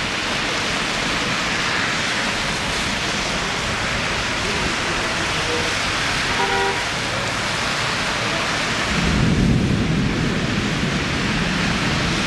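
Heavy rain falling steadily, with a low rumble of thunder building about nine seconds in.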